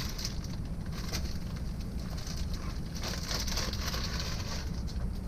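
Rustling and light clicking, as of bagged small parts being handled, over a steady low rumble.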